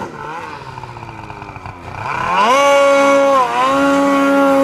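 Polaris 9R snowmobile's two-stroke engine coming off the throttle, its pitch sinking for about two seconds, then revving back up and holding a steady high pitch, with a brief dip about halfway through.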